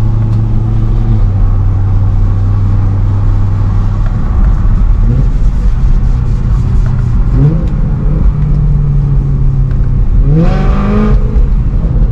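BMW M3 E92's 4.0-litre V8 engine running steadily, then revving up in three short sweeps, the loudest about ten seconds in, each settling at a higher steady pitch.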